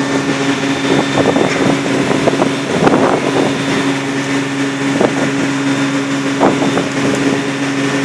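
Shrimp boat's engine running with a steady drone, with wind buffeting the microphone and a few sharp knocks scattered through.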